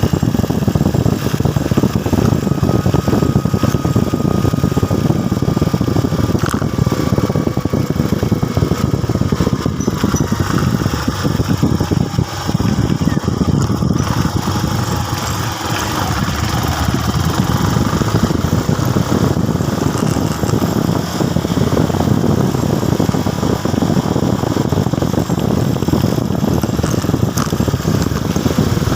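Motorcycle engine running steadily while the bike is ridden along, with a dense, even rush of noise throughout.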